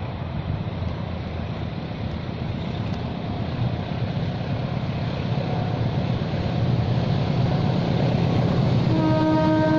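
Approaching diesel train rumbling steadily and growing louder, with the locomotive's horn starting to sound near the end.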